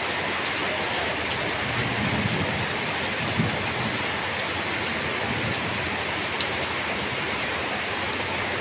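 Steady rain falling and pattering on surfaces, with scattered individual drops and a couple of sharper drip hits about three and a half and six and a half seconds in.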